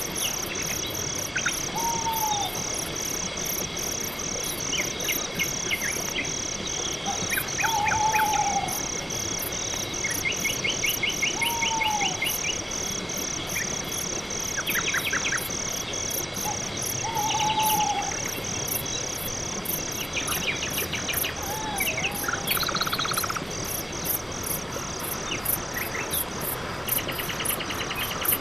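Night forest ambience dominated by crickets chirping in a steady, even rhythm of about two chirps a second, with faster, higher insect pulsing above. Short rattling trills come and go, and five brief arching call notes sound at intervals of a few seconds.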